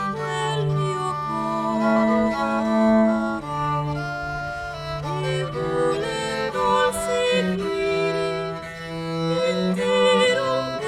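Live acoustic early Italian music played by a small ensemble: held melody notes, some with vibrato, over a long sustained bass note.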